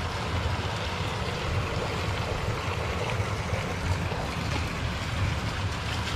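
Steady rushing of running water, as in a trout pond's fresh-water inflow, with a low rumble of wind on the microphone.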